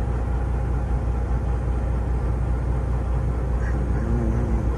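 Semi truck's diesel engine running steadily with a constant low rumble.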